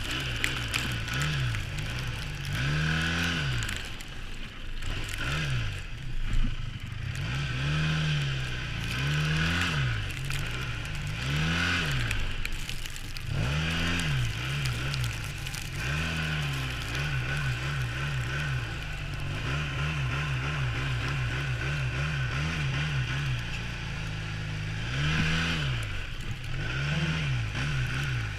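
2012 Arctic Cat F1100 snowmobile engine revving up and easing off again and again. The revs hold steadier for a while in the second half, over the steady hiss of the machine underway.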